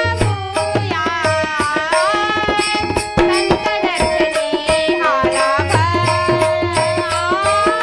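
Marathi abhang devotional music: a gliding, ornamented melody line over a steady held drone tone, kept in time by regular drum strokes.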